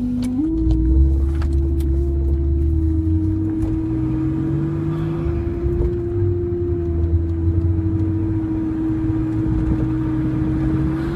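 Car engine running with a low rumble and a steady, high whine that steps up slightly at the start and then holds level.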